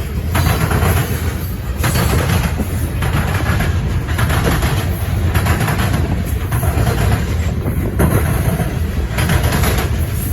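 Freight cars of a potash train rolling past close by: a steady low rumble of wheels on rail, with a rushing noise that swells and falls about every second and a half as each car's wheels pass.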